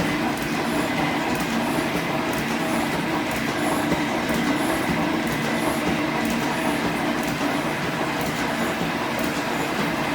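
G&E metal shaper running, its ram stroking back and forth while a shear tool cuts the back face of an aluminum bar. Steady machine noise with a regular beat about once a second.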